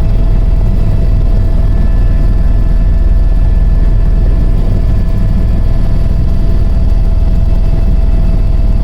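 Helicopter in flight: a loud, steady low rumble of rotor and engine with a constant whine above it.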